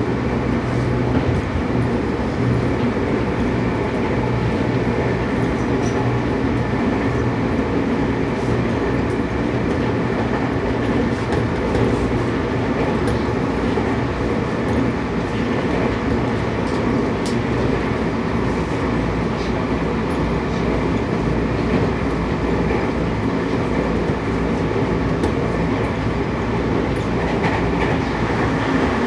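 Running noise inside a Seibu 6000 series commuter train's motor car (Toshiba IGBT VVVF set), cruising at a steady speed. A continuous rumble of wheels on rail carries a steady hum, with no rise or fall in pitch.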